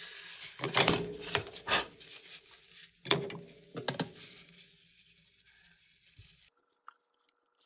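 Paper tissue being pulled out and handled: rustling with several sharp crackles in the first four seconds.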